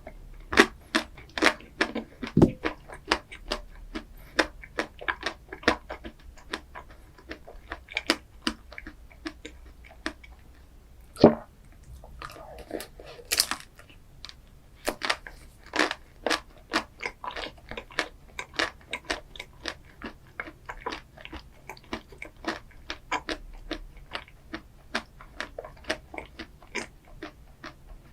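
A person chewing and crunching a chocolate-coated ice cream dessert: a quick run of sharp crunchy clicks, several a second, with a short pause a little before the middle.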